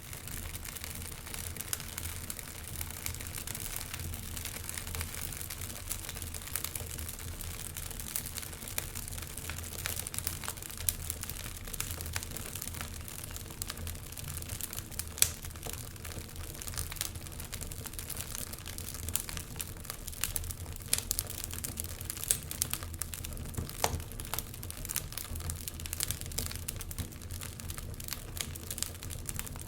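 Wood fire crackling in an open fireplace, with irregular sharp pops and snaps, the sharpest about fifteen seconds in, over a low steady rumble of wind.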